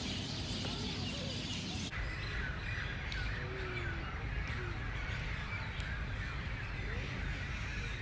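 Several birds chirping and calling in park trees, many short calls over a steady low background rumble, with an abrupt change in the background about two seconds in.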